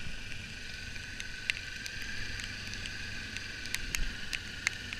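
Motorcycle rolling slowly, its engine a steady low rumble under wind noise on the microphone, with scattered sharp ticks.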